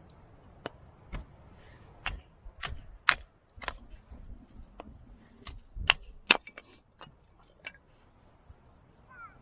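A series of irregular sharp clicks and knocks, bunched in the middle, a few with a dull thud beneath them.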